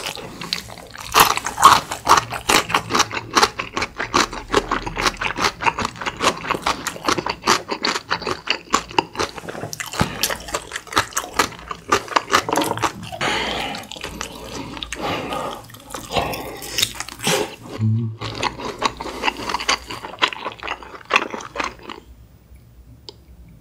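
Close-miked eating sounds: rapid wet chewing and smacking of radish kimchi and tteok-galbi, which stop about two seconds before the end.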